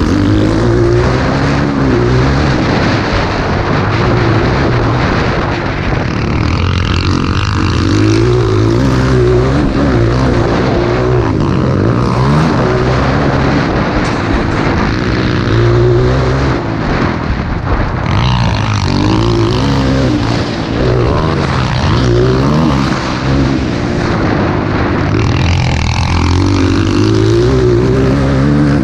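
Motocross bike engine running hard, its pitch rising and falling again and again as the throttle is opened and closed through the course.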